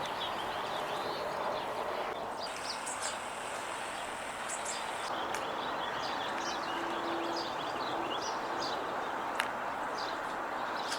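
Small birds chirping on and off over a steady background hum of distant traffic, with a thin high note held for a couple of seconds about two seconds in.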